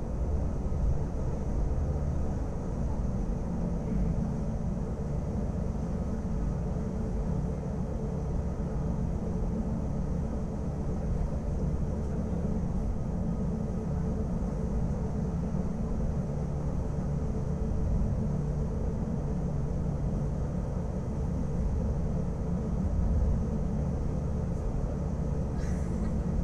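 Wengernalp Railway electric rack-railway train running, heard from on board: a steady low rumble with faint steady whining tones over it. A brief click comes near the end.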